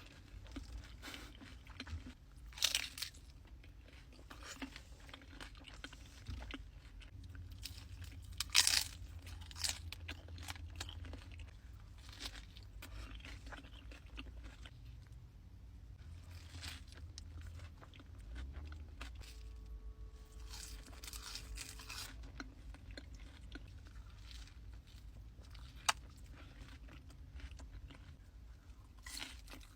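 Close-miked eating: crunchy food bitten with sharp crunches, the loudest about three and nine seconds in, and chewing in between.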